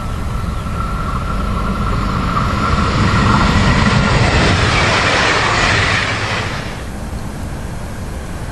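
A red DB Regio multi-car passenger train passing close at speed. The rush of wheels on rail and air builds to a peak over a few seconds, with a steady high whine that fades partway through. About seven seconds in the sound drops suddenly to a quieter, steady rumble.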